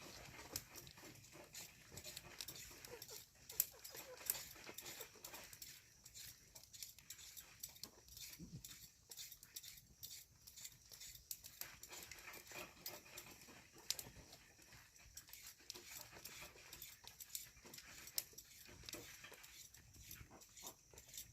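Faint animal sounds among many small clicks and taps.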